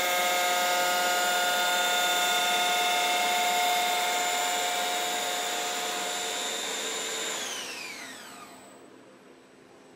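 CNC wood lathe running with a steady whine over a hissing noise, then winding down about seven seconds in, its pitch falling away as the machine stops.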